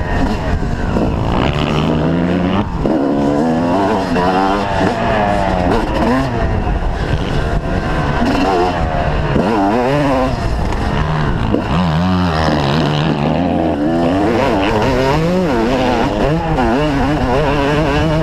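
Several motocross bikes riding the track at once, their engines revving up and down repeatedly as they accelerate and shift through the gears.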